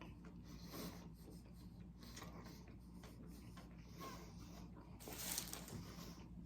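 Faint rustling and handling noises as a sub sandwich is eaten, with a louder rustle about five seconds in.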